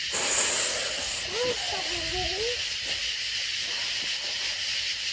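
Small ground-spinner firework lit and hissing steadily as it throws out sparks, the hiss starting abruptly.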